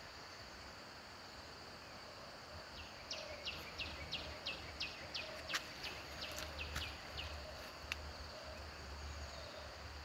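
A bird calling a quick run of a dozen or so short, falling notes, about three a second, that stops just past the middle, over a steady high insect drone.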